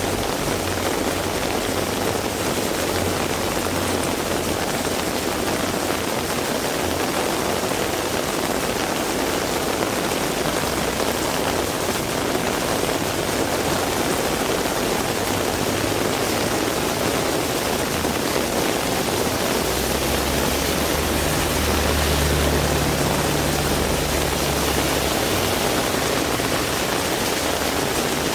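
Heavy rain falling steadily. In the last third a low rumble from a passing vehicle rises for about five seconds and fades.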